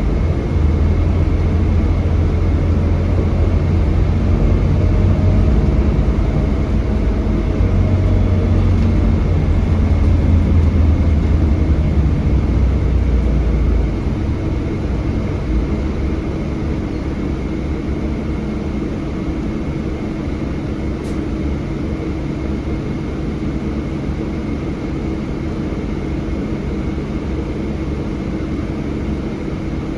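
Scania K320HB bus's DC9 five-cylinder diesel heard on board, running hard under load, then easing off about halfway through to a quieter, steadier run.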